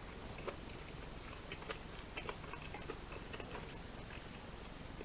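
Chewing a chili cheese corn dog close to the microphone: faint, irregular wet mouth clicks and smacks.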